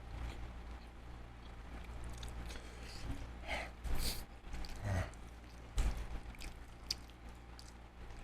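A person chewing and eating seafood close to the microphone: wet mouth clicks and smacks, with a few louder bites between about three and six seconds in.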